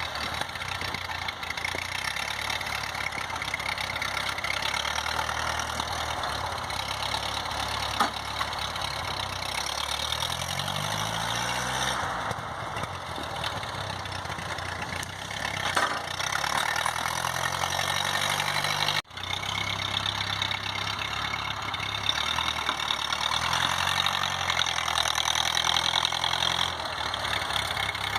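1952 Ford 8N tractor's four-cylinder flathead gas engine running while plowing snow, its pitch rising and falling with the throttle a couple of times. The sound cuts out for an instant about two-thirds of the way in.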